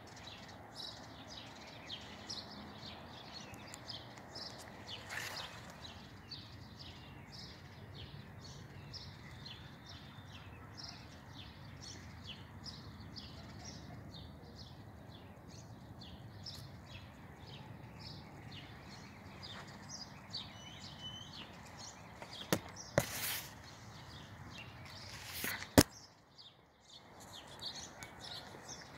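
Birds chirping repeatedly over a low steady background hum of outdoor noise, with a few sharp clicks near the end, the loudest a single sharp click.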